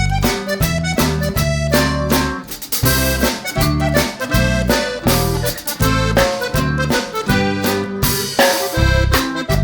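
Upbeat background music with an accordion-like lead over bass and drums.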